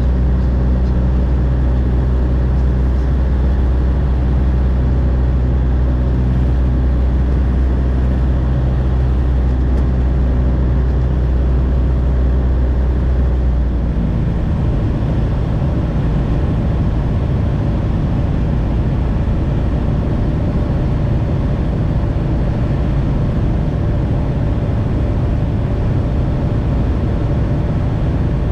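Light aircraft engine and propeller droning steadily in flight, its tone shifting about halfway through as the lowest hum drops away.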